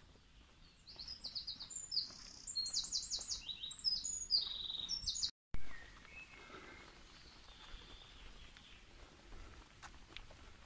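A songbird singing in quick high-pitched trilled phrases, repeated for about four seconds. The sound drops out briefly about five seconds in, and after that only faint bird calls remain over quiet outdoor background.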